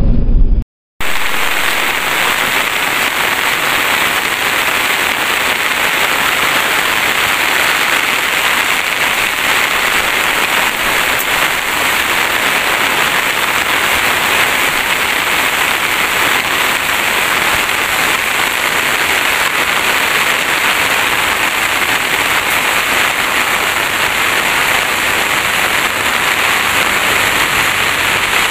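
Steady rain falling on dense leafy shrubs, an even hiss that begins about a second in after a short cut to silence.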